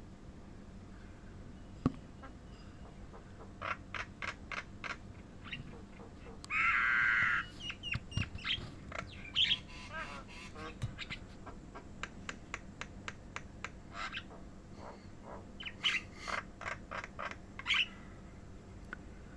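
A wild bird calling in short, sharp chirps, repeated in loose runs, with one louder, harsher call about six and a half seconds in.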